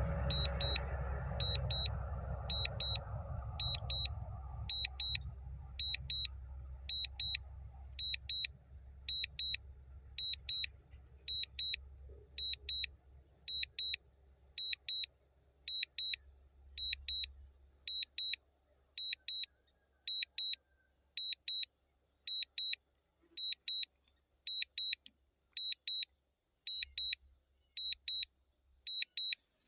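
Low-battery warning on a DJI drone's controller or flight app: pairs of short high-pitched beeps repeating about once a second, signalling that the drone battery is nearly empty. A low rumble underneath fades out over the first half.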